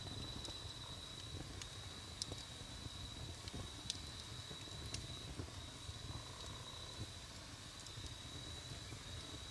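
Wood campfire crackling, with sharp pops about a second apart over a low rumble, and a steady high-pitched insect trill behind it.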